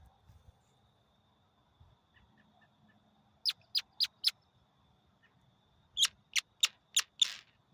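Audubon bird call, a metal piece twisted inside a resined wooden dowel, squeaking out sharp chirps: a quick run of four, then after a pause five more, the last one drawn out.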